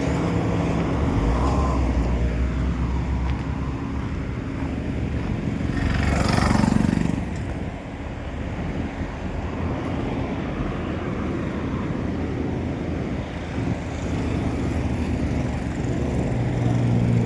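Truck engine running with steady road noise. A louder rush of noise swells and fades about six to seven seconds in.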